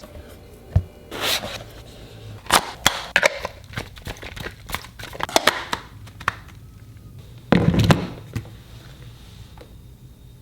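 Small hard objects being handled and set down: a string of sharp clicks and knocks, with two brief scuffling bursts, over a low steady hum.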